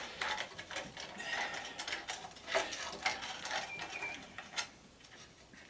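Ratchet wrench clicking in short irregular strokes as a loosened 10 mm bolt is backed out of an old belt/disc sander's frame, with small metal clinks.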